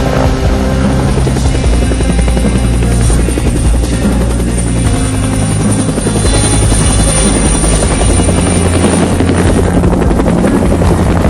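Helicopter rotor chopping steadily, mixed with music that has a low, shifting bass line.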